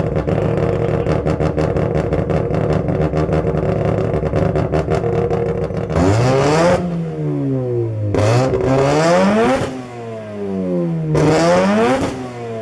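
Mazda rotary (Wankel) engine idling steadily with a rapid ticking, then revved up and let back down three times in the second half.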